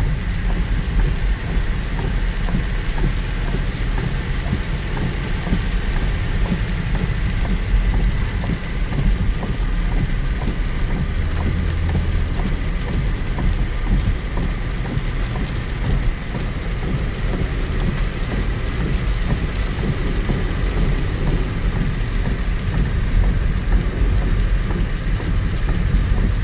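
Steady rain pattering on a Saab 9-3 SportCombi, heard from inside the cabin over the car's low, even rumble.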